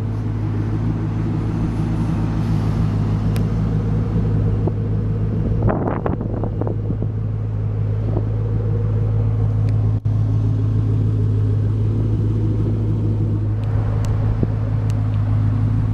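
A 2000 Chevrolet Camaro SS's 5.7-litre V8 idling steadily through a custom dual exhaust, an even low drone.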